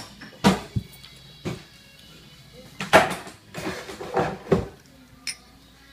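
Irregular short knocks and clatters of dishes and utensils at a meal table, about eight in a few seconds, the loudest about three seconds in.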